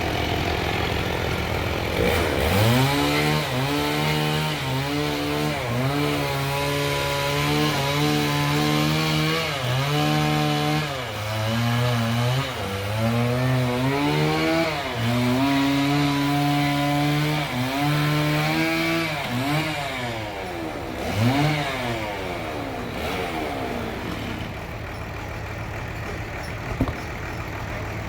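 Sawmill's engine-driven saw revving up and cutting trembesi wood, its pitch sagging and recovering again and again as the cut loads it. Near the end it sweeps up and down a few times, then drops back to a lower steady hum.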